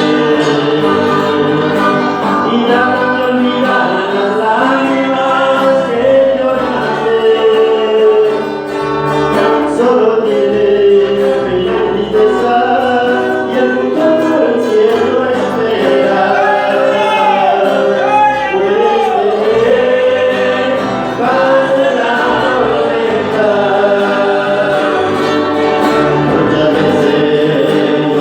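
Spanish-language Christian gospel song: voices singing a melody with choir-like backing over instrumental accompaniment.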